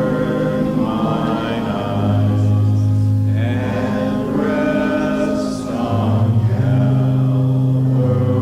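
Congregation singing a slow hymn in long held notes, with a sustained bass line under the voices.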